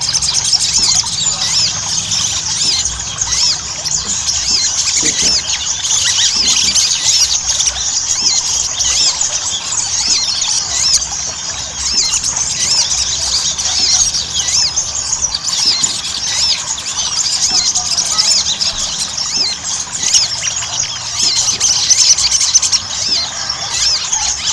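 Sogon (sogok ontong) songbird singing continuously in full voice: a fast, unbroken run of high, squeaky chirps and trills.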